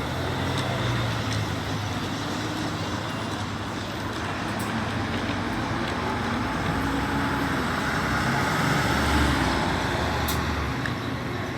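Steady road traffic noise with a low engine hum, swelling a little as a vehicle passes about eight to ten seconds in.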